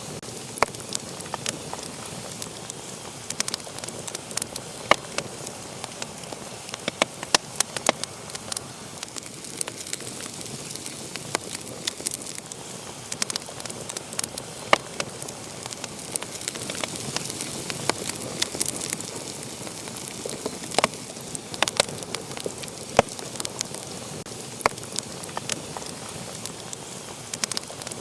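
Wood fire crackling in a fireplace: frequent irregular sharp pops and snaps over a steady soft hiss of burning.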